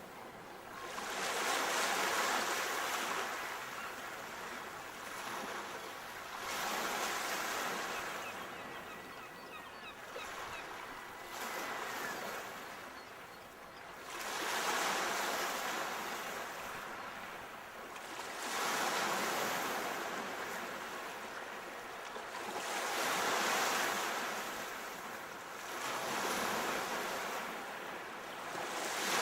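Sea waves breaking and washing up the shore, a surge of surf about every four to five seconds, seven in all.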